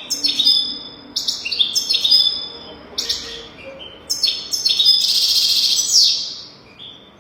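European goldfinch singing: short, quick twittering phrases about once a second, then a longer, louder, harsher run about five seconds in that fades away.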